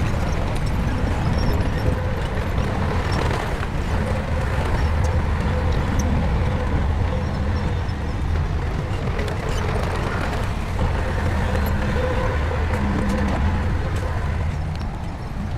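Shantui crawler bulldozer's diesel engine running steadily, with a low drone and a few light clicks over it.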